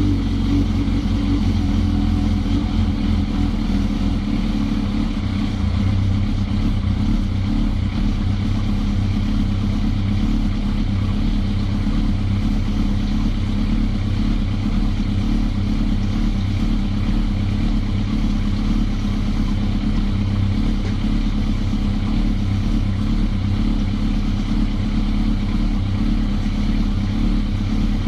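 Suzuki GSX-R motorcycle engine running steadily, on its first start after a rebuild to replace burnt-out valve stem seals that had made it smoke at hot idle.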